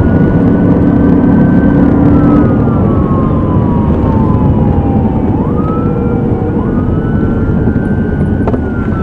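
Police siren in a slow wail, its pitch rising and then falling over several seconds, then rising again about halfway through, over a loud, steady rumble of a vehicle in motion.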